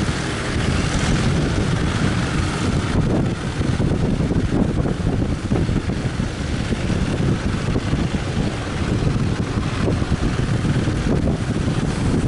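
Strong wind buffeting the microphone in a continuous low rumble, with the hiss of surf behind it.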